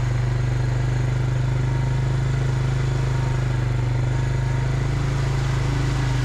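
Farm vehicle's engine running at a steady speed, a constant low drone with no change in revs.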